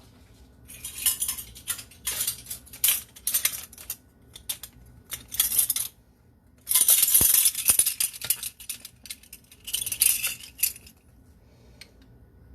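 Metal kitchen utensils clinking and rattling in irregular bursts, the busiest spell about seven seconds in, as a teaspoon of vanilla is measured out.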